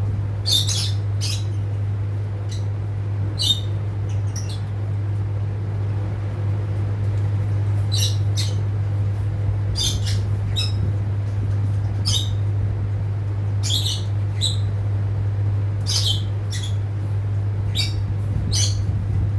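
Rosy-faced lovebirds giving short, shrill squawking calls, one every second or so at irregular intervals, over a steady low hum.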